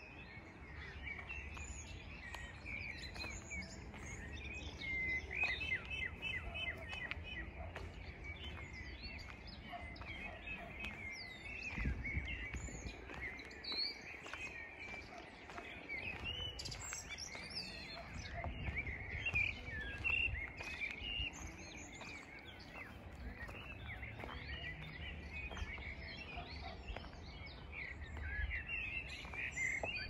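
Many small songbirds chirping and singing in quick, overlapping phrases, with an uneven low rumble underneath.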